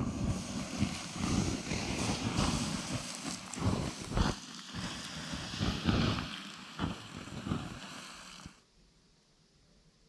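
Wind buffeting the microphone: a rough, rumbling rush that rises and falls, then cuts off abruptly near the end.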